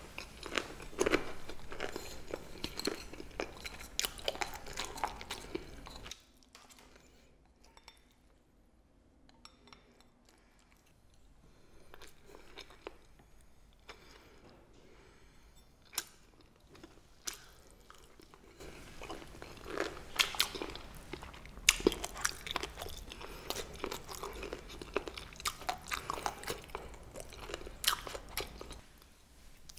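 Close-up chewing of crisp blanched green onion rolls (pa-ganghoe), with many small crunches. The chewing fades to faint for about twelve seconds in the middle, then picks up again.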